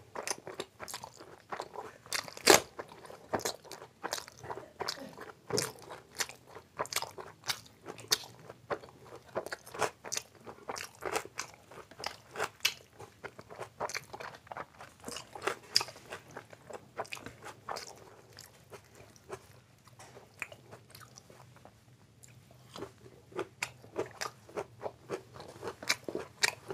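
Close-miked eating: a man biting, crunching and chewing mouthfuls of Manchurian, fried rice and puri, a steady run of short wet clicks and crunches. There is a louder crunch about two and a half seconds in and a quieter spell near the end.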